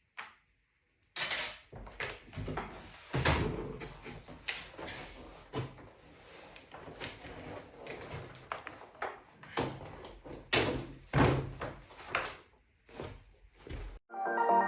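Irregular knocks, clicks and thumps, many over about thirteen seconds, the loudest about a second in, near three seconds and near eleven seconds; they stop abruptly just before the end.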